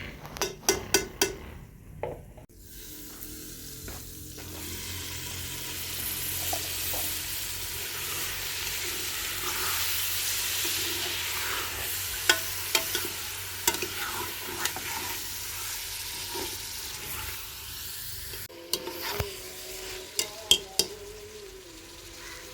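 Food sizzling in a cooking pot while a spoon stirs it, with clusters of sharp knocks of the spoon against the pot near the start and again near the end. The sizzle swells in the middle stretch.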